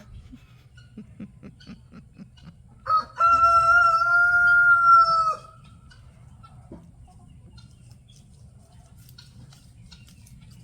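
Rooster crowing once: a short opening note, then a long, steady held call lasting about two and a half seconds, starting about three seconds in.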